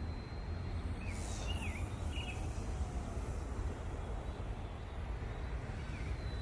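Small toy RC helicopter flying, a thin steady high whine from its little brushed motors over a low steady rumble. A few bird chirps come about one to two seconds in.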